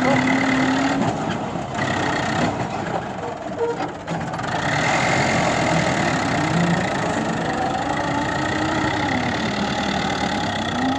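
Tractor engine running steadily, with a brief dip in level about four seconds in.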